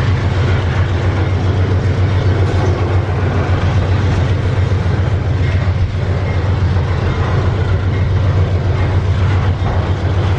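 Train running by: a loud, steady rumble of wheels on rails with a strong low hum underneath.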